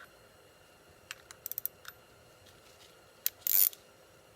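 Light metallic clicks and taps from hand tools and shock parts being worked: a quick run of clicks about a second and a half in, then a sharp click and a short rasping scrape near the end.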